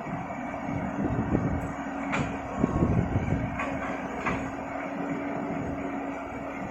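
Isuzu Deca dump truck running, heard from inside the cab: a steady engine hum over a low rumble, with a few sharp knocks and rattles from the truck jolting over rough ground.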